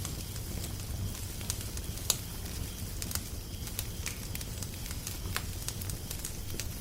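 Wood fire crackling, with irregular sharp pops, the loudest about two seconds in, over a low steady rumble.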